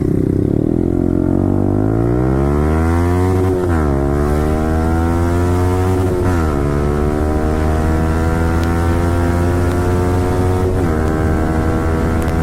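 Yamaha R15 V4's single-cylinder engine through a full-system Akrapovic exhaust, accelerating hard through the gears: the pitch climbs, drops sharply at an upshift about three and a half seconds in and again about six seconds in, then climbs more slowly before a third upshift near the end.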